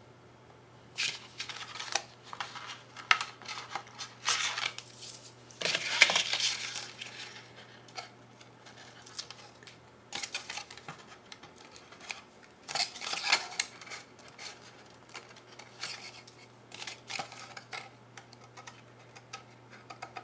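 Cardstock and double-sided adhesive tape being handled and pressed during papercrafting: scattered rustles, taps and clicks, with a longer rustling stretch about five seconds in, over a faint steady hum.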